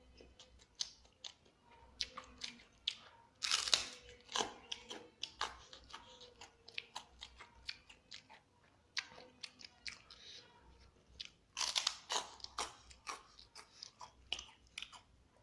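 Close-up chewing and crunching of a mouthful of telur geprek, crispy battered fried egg with rice and sambal, with many small crunches and two louder bursts of crunching, about three and a half seconds in and again near twelve seconds.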